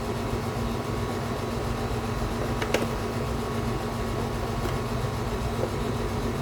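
Steady machine hum, like a running fan, with a constant low tone. One sharp click comes about two and a half seconds in.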